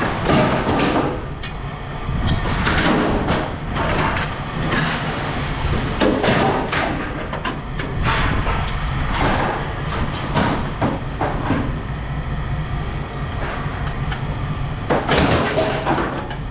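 A machine's engine running steadily under repeated clanking and scraping of scrap metal being handled.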